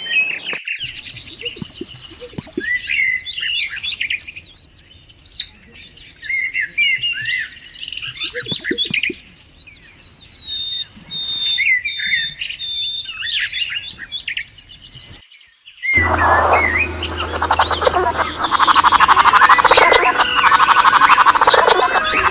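Several birds chirping and whistling in short, varied calls, with a brief pause. About two-thirds of the way in, this gives way abruptly to a louder, dense chorus of rapid pulsing calls over a low hum.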